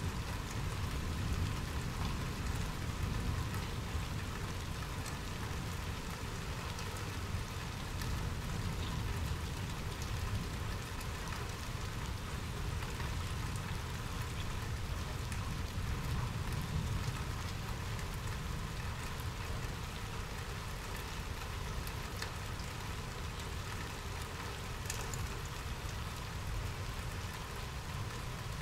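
Steady rain falling, an even hiss over a continuous low rumble, with occasional sharper drop ticks.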